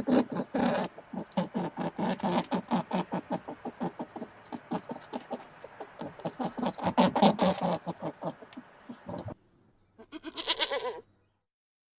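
Farm animal noises: a long run of rapid, close-spaced grunting or clicking pulses, then after a brief pause a short bleat about ten seconds in.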